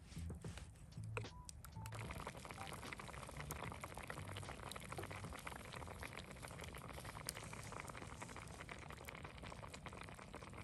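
Food cooking over a campfire: a steady, dense sizzle with many fine crackles sets in about two seconds in, after a few low knocks.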